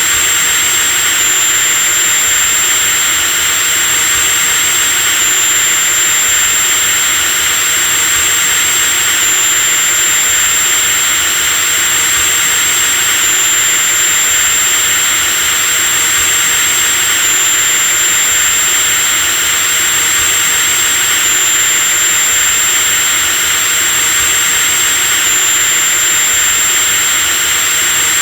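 Electric drill motor running continuously at steady speed, a loud high-pitched whine over a dense buzz, with a slight pitch step about every four seconds.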